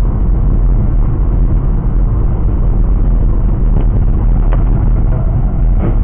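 Steady low rumble of a moving vehicle's engine and road noise, with a few faint clicks in the second half.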